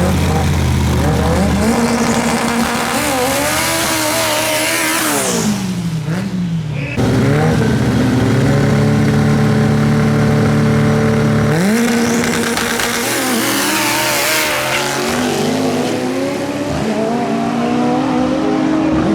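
Drag racing car engines revving and accelerating hard, the pitch climbing and falling away. The sound changes abruptly about seven seconds in, and a second run-up in pitch follows a few seconds later.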